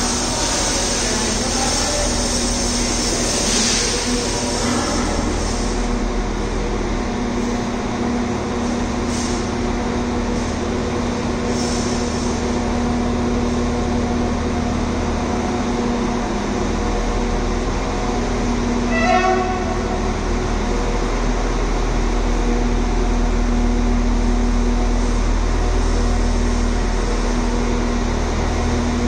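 A train standing or moving slowly at a station platform, giving a continuous low rumble with a steady hum; the rumble deepens about two-thirds of the way through. A brief run of rapid high chirps sounds once, shortly after that.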